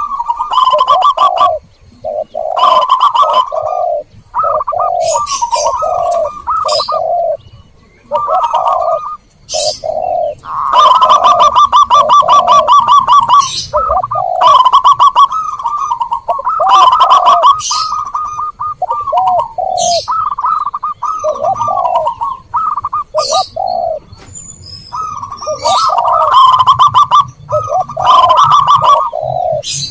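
Zebra doves and spotted doves cooing together: fast trilled coos over repeated lower, rounded coo notes, with a few brief pauses. Short high chirps from small birds come in now and then.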